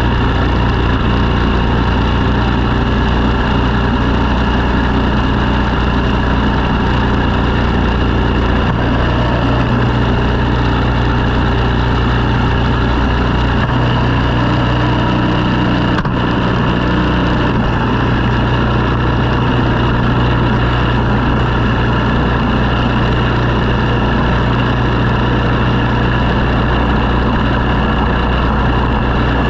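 An engine running steadily at constant speed, a continuous drone with no revving.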